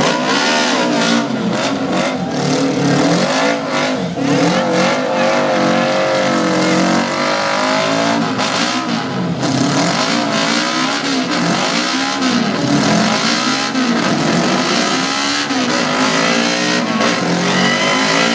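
Several motorcycle engines revving and riding past one after another, their pitch rising and falling as they go by.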